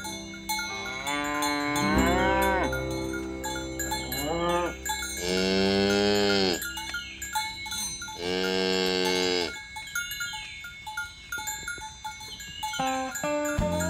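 Cattle mooing: several long, drawn-out moos in the first ten seconds, with bells tinkling throughout.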